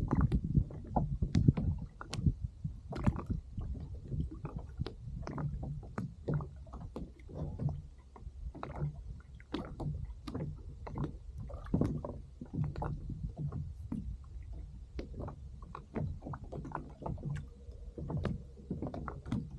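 Small waves lapping and slapping against a floating kayak's hull: irregular splashes and light knocks over a steady low rumble.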